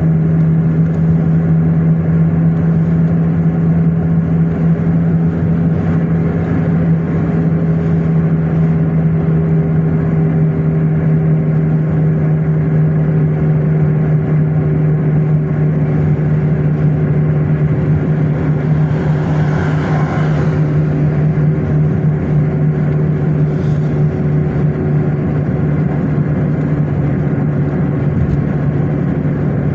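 Car driving at a steady speed: a constant engine and road-noise drone with a steady low hum, and a brief swell of hiss about twenty seconds in.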